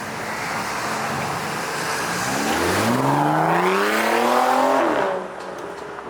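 Bentley Bentayga with a custom exhaust accelerating. Over steady road noise, the engine note climbs in pitch and gets louder for about three seconds, then drops off abruptly about five seconds in.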